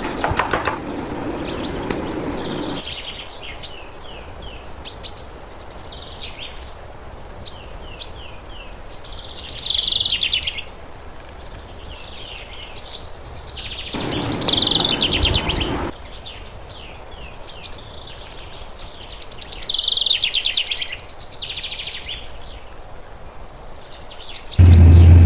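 Small birds chirping in short, repeated high phrases every few seconds. Two brief stretches of rushing noise come in, and a loud low hum starts near the end.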